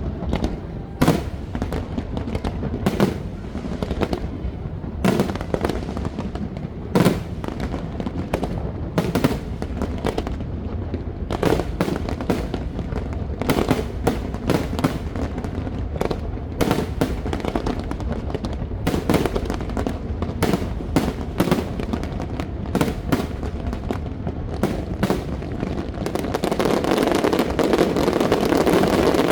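Aerial fireworks bursting in quick, irregular succession, bang after bang with crackle in between. Near the end a louder, steady rushing noise comes in under the bangs.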